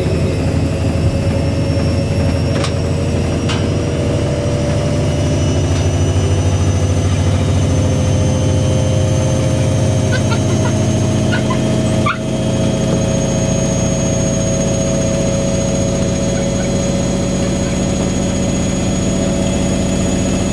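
Washing machine on a high-speed spin: a loud, steady motor whine whose tones rise slowly in pitch, over a low drum rumble. A couple of faint clicks sound near the start, and there is a brief dip about twelve seconds in.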